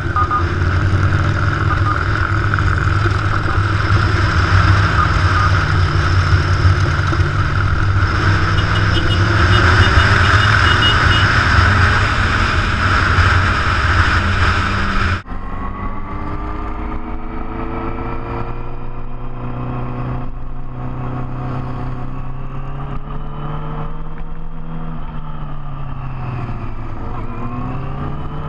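Big motorcycle engines running on a ride, with heavy wind and road noise. About halfway the sound cuts off abruptly to a duller, quieter stretch in which the engine pitch rises and falls as the revs change.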